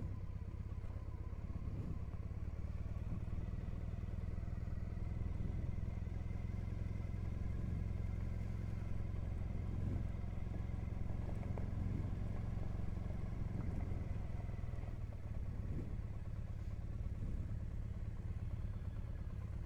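Triumph Bonneville parallel-twin motorcycle engine running steadily at low speed, heard from the rider's seat while riding slowly off-road, with a few faint knocks and clatter.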